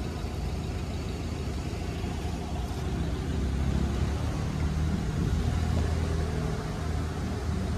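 A motor vehicle's engine running nearby: a low, steady rumble that grows louder around the middle.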